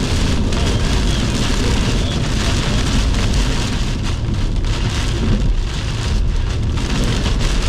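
Heavy rain and strong wind gusts beating on a car as it drives through a severe thunderstorm: a loud, steady rush with a deep rumble underneath.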